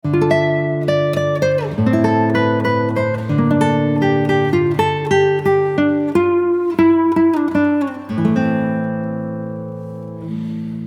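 Background music: a solo acoustic guitar playing a plucked melody over sustained bass notes, the last chord left to ring and fade near the end.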